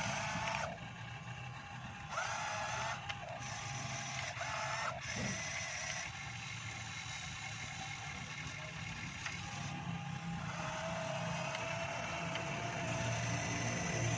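Motors of a remote-control long-reach excavator model whining as the boom and bucket work the dirt: several short whines in the first few seconds, some rising slightly in pitch before cutting off, then a steadier whine from about ten seconds in.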